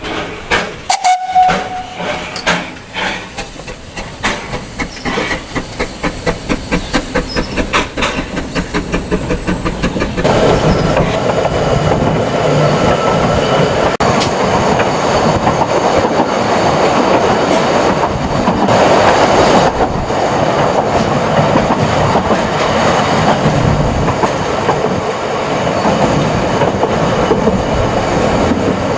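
Narrow-gauge steam train, hauled by 2-6-2T tank locomotive No. 8, getting under way: its regular beats quicken over the first ten seconds or so. It then settles into a steady running noise.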